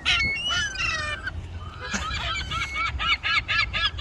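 Seagulls calling: a few squawks at the start, then from about two seconds in a rapid run of repeated calls, about five a second, the angry call gulls give while others take the food.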